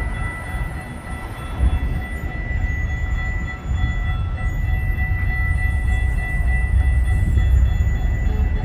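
A train passing, a steady low rumble with a thin, steady high tone over it.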